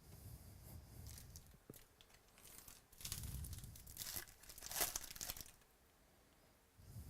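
A trading-card pack wrapper being torn open and crinkled, in several bursts of tearing and rustling, loudest about five seconds in.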